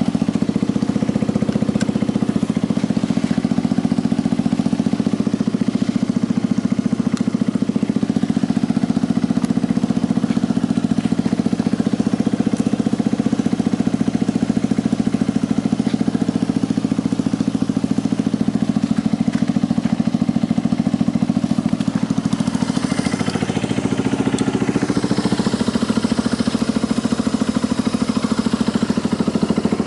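Yamaha Grand Majesty 250 scooter's single-cylinder four-stroke engine idling steadily through an aftermarket muffler. Its note shifts briefly about three-quarters of the way through.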